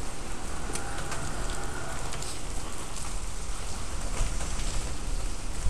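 Steady rain falling on wet pavement, with individual drops ticking sharply close by.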